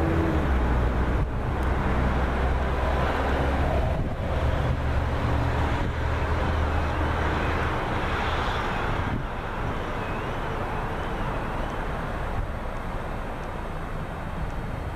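Amtrak Keystone electric passenger train running away down the track: a steady rumble that slowly fades as it recedes, with the low hum easing off about halfway through.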